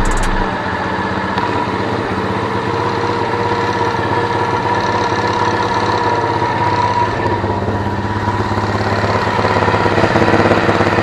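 Small single-cylinder four-stroke engine of a Chinese-made Cub-type motorcycle idling steadily through a stock muffler with its catalyst removed, a little louder near the end.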